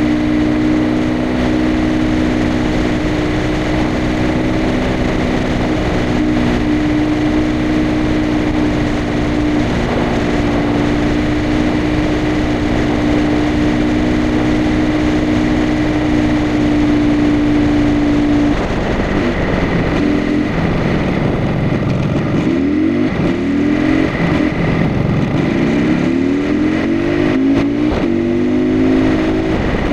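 IZh Planeta Sport 350 motorcycle's single-cylinder two-stroke engine running under way, holding a steady pitch for most of the time. About two-thirds of the way through, its pitch starts rising and falling over and over as the engine revs up and drops back.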